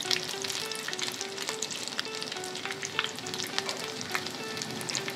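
Chicken-and-potato cutlets frying in shallow oil: a steady sizzling hiss dotted with many small crackles and pops. A soft melody of short alternating notes repeats underneath.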